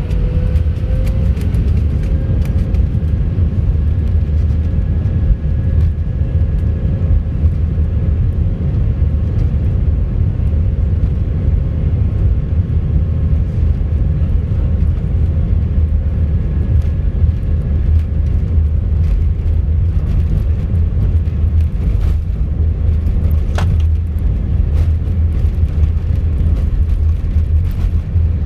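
Airbus A319 jet engines heard from inside the cabin: a loud, steady rumble with a steady whine on top that rises slightly about a second in.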